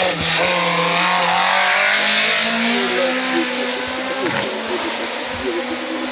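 Hill-climb race car accelerating past at full throttle, its engine note climbing and dropping several times with gear changes. Loudest in the first half, then fading as it goes on up the course.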